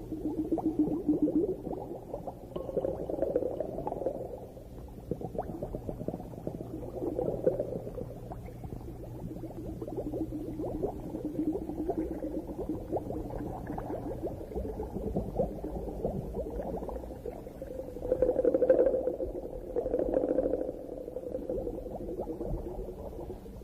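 Underwater sound on a coral reef: bubbling and fine crackling, swelling louder every few seconds.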